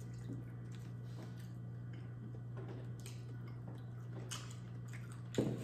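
Soft, sporadic mouth sounds of people eating king crab and shrimp: light smacks and clicks of chewing, over a steady low hum.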